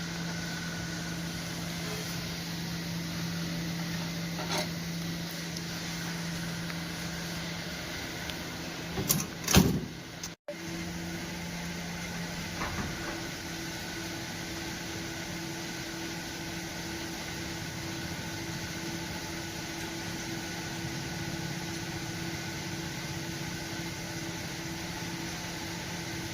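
A steady mechanical hum, broken by a few knocks and clicks about nine to ten seconds in. After a brief dropout it carries on at a higher pitch.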